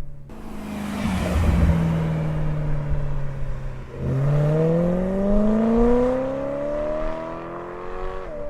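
BMW E92 M3's V8 through a Borla ATAK exhaust without venturis, recorded from the roadside. The car goes by with a rush of noise and a slowly sinking engine note, then about four seconds in it accelerates, the exhaust note rising steadily for about four seconds before dropping at a gear change near the end.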